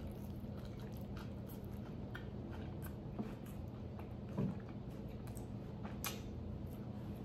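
A person chewing a mouthful of Nashville hot chicken sandwich: soft wet mouth sounds and small scattered clicks over a steady low hum, with a short low thump about four and a half seconds in.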